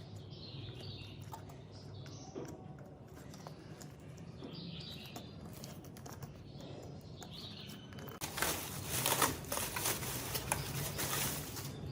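Faint scattered clicks of hand work on metal parts, then from about eight seconds in a loud, rapid, rough scraping with many quick strokes.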